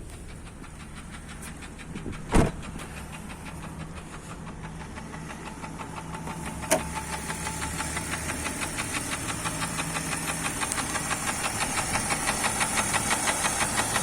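Jeep Grand Cherokee 4.0 inline-six (AMC 242) idling warm with an even, rapid knock that grows louder through the second half, which the owner puts down to cracked piston skirts. There is a heavy thump about two seconds in and a sharp click near the middle.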